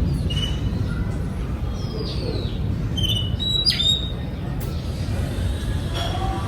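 Oriental magpie-robin singing: a scattered series of clear whistled notes and quick pitch glides, some falling. The song sits over a steady low rumble.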